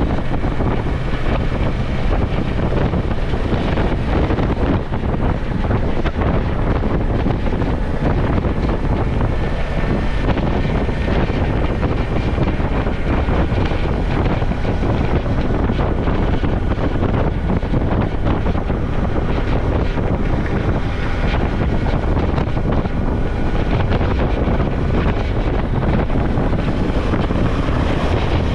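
Wind rushing over the microphone of a Suzuki V-Strom motorcycle on the move, with the bike's engine running steadily underneath.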